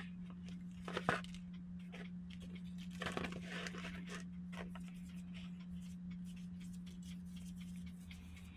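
Faint rustling, crinkling handling noises with a few soft clicks, over a steady low hum.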